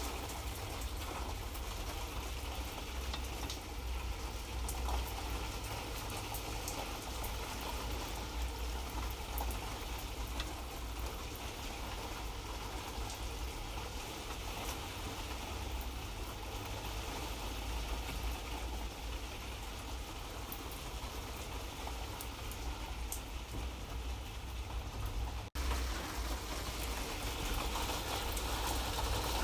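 Light rain falling steadily: an even hiss with scattered drop ticks and a low rumble underneath. About 25 seconds in it cuts out for an instant, then carries on.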